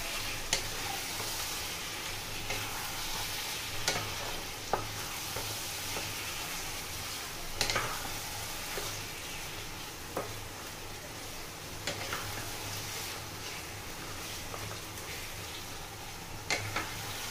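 Marinated chicken pieces sizzling in masala in a frying pan while being stirred with a wooden spatula, with a steady frying hiss and a sharp click every second or two as the spatula knocks the pan.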